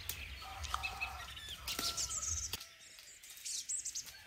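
Small birds chirping and calling in short, high notes. A low rumble underneath cuts off abruptly about two and a half seconds in.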